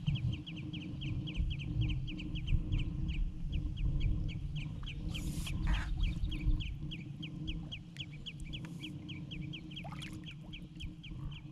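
A bird calling in a rapid, evenly repeated series of short high notes, about four or five a second, over a low rumble.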